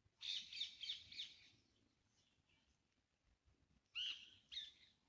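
Birds calling: a quick run of high chirps in the first second and a half, then two short calls near the end, the first sliding down in pitch.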